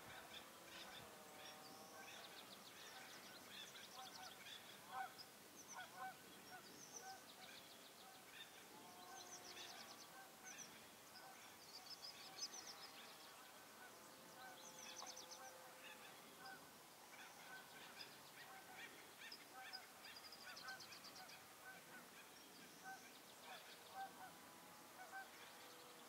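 Faint calls of several birds: short pitched notes, some sliding in pitch, mixed with quick high trills, going on throughout.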